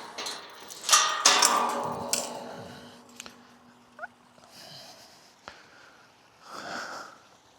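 A clatter, then a loud clang about a second in whose ring fades over the next few seconds, followed by a few lighter knocks, as chore gear is handled.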